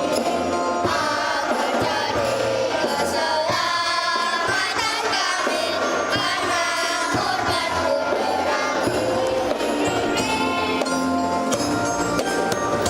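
A choir singing a hymn in parts over instrumental accompaniment with light percussion.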